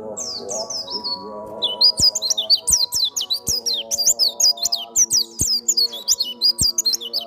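A pleci (white-eye) singing a fast, nearly unbroken twittering song of short, high, down-slurred notes, which turns dense about a second and a half in. Background music plays beneath it.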